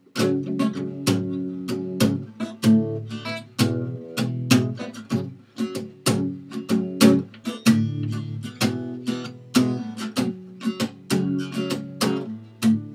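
Acoustic guitar strummed with palm muting in a steady, busy rhythm, cycling through an F-sharp minor, D major and E major chord progression.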